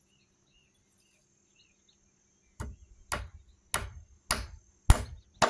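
Hammer driving nails: six sharp blows about two a second, starting nearly three seconds in and growing louder. Before them, faint insect chirping.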